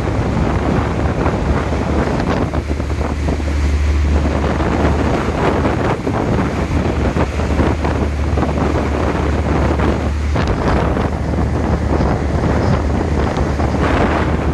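Wind buffeting the microphone over the rushing, churning wake of a glass-bottom catamaran under way, with a steady low rumble beneath.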